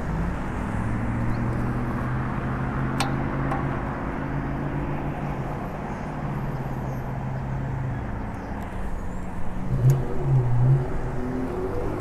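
Steady road and wind noise with motor traffic going by, heard from an e-bike ridden along a street. There is one sharp click about three seconds in.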